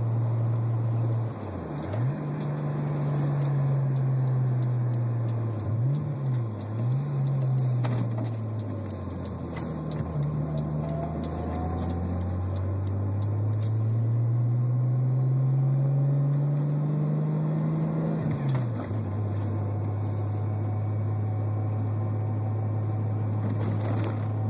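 1987 BMW M6's straight-six engine through its aftermarket exhaust (stainless headers, MagnaFlow cat, Moroso spiral-flow muffler, glass pack and MagnaFlow muffler), heard from inside the cabin while driving. The engine note rises and falls through gear changes, climbs steadily for several seconds, drops sharply about 18 seconds in, then holds a steady drone with the throttle on under load at about 2,000 rpm.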